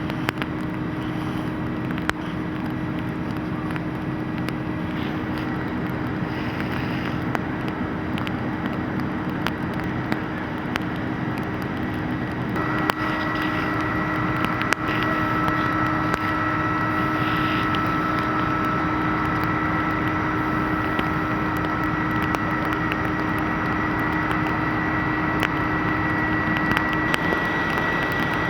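Steady mechanical drone of engines running, with a constant hum; about halfway through, a higher steady whine joins in and holds.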